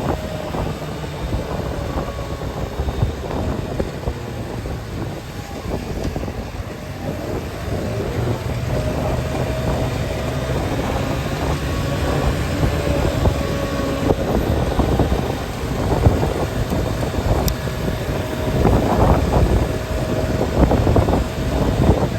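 Vehicle driving along a road: a steady engine and road rumble with frequent jolts, and a faint wavering whine.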